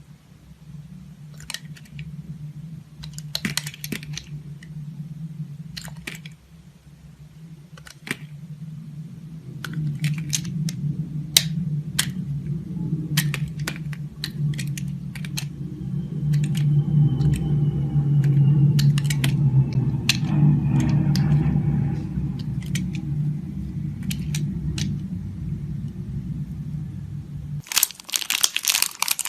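Dry soap being cut with a knife: scattered sharp crunches and clicks over a steady low hum. Near the end the hum stops and dense crinkling crunches take over.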